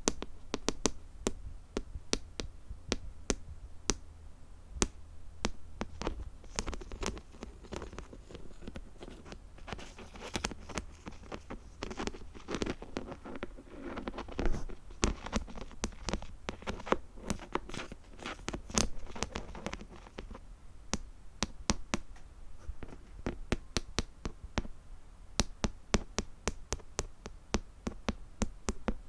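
Fingernails tapping on small hard objects, close to the microphone, in sharp separate taps. About six seconds in, the taps grow denser and mix with scratching and rustling. Near the twentieth second this dies away and the sparse taps return.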